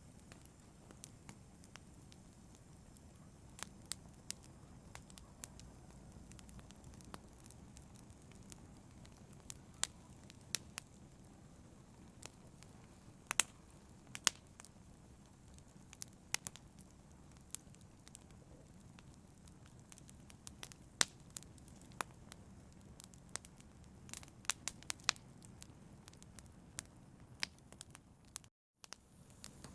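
Wood campfire crackling, with sharp pops and snaps at irregular moments over a steady low rumble of burning. The sound cuts out for a fraction of a second near the end.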